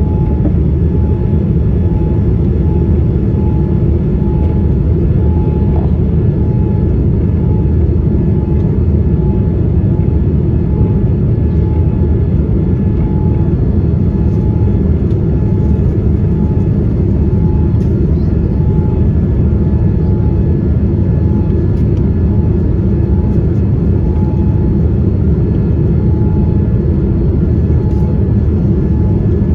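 Boeing 787-9 airliner heard from inside the cabin: a loud, steady low roar of engine and airflow noise, with a faint tone pulsing about once a second.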